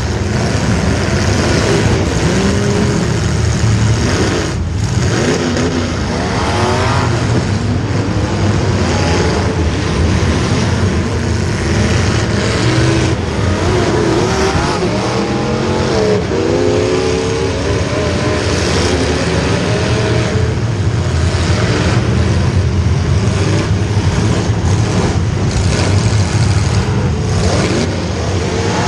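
Several racing engines running hard together, their pitch repeatedly rising and falling as they rev up and back off.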